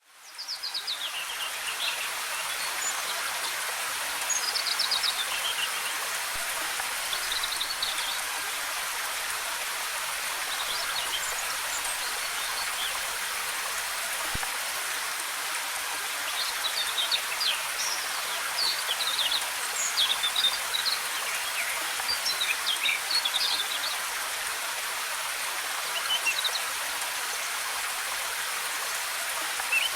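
Steady rush of a waterfall's cascading water, fading in at the start, with forest birds chirping on and off over it.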